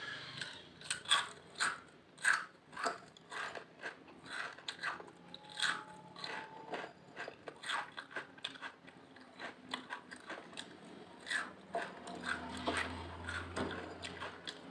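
Potato chips being bitten and chewed close to the microphone: an irregular run of crisp crunches, two or three a second.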